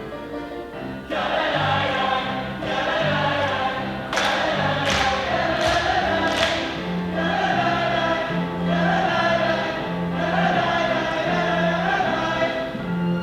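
A stage cast singing together in chorus over a musical-theatre accompaniment with a steady low bass line. Four sharp hits, close together, come between about four and six and a half seconds in.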